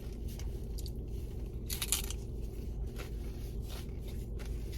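Crunchy hard taco shells being bitten and chewed: a few short crackling crunches, the loudest about two seconds in, over a steady low hum.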